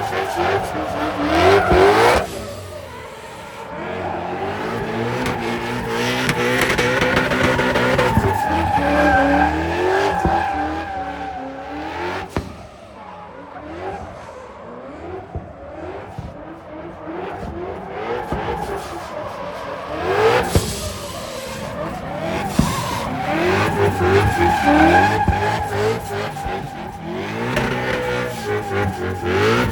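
Performance cars drifting: engines revving up and down at high rpm while the tyres squeal, with a quieter stretch midway before the revving and squealing build again.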